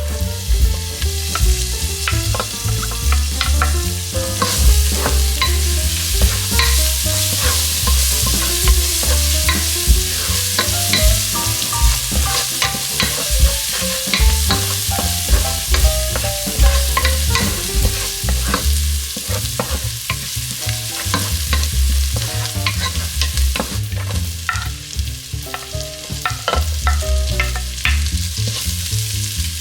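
Food sizzling as it sautés in a hot pan while being stirred, with frequent clicks and scrapes of the utensil against the pan. The sizzle grows stronger a few seconds in and eases off near the end.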